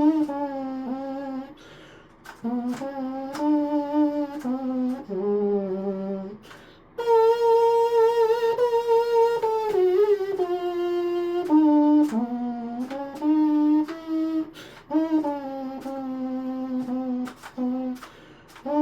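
3D-printed pocket trumpet with rectangular valves playing a simple melody in short phrases of held notes, with a couple of mistakes. Its tone is not great and there are some air leaks in the tubing and valves.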